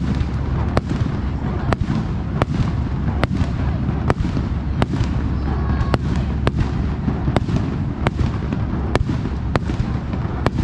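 Aerial fireworks bursting in a steady run of sharp bangs, a little more than one a second, over a continuous low rumble of echoing detonations.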